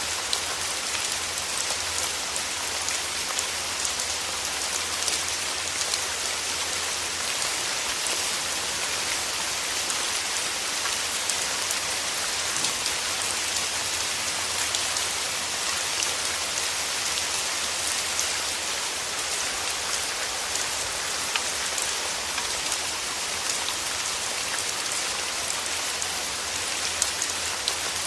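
Steady rain falling, an even hiss dotted with many small, sharp raindrop ticks.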